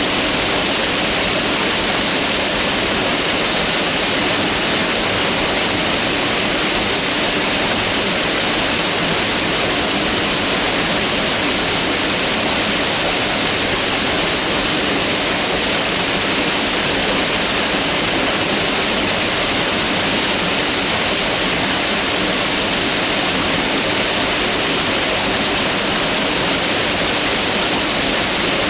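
Mountain river rushing, a steady loud rush of water with no breaks.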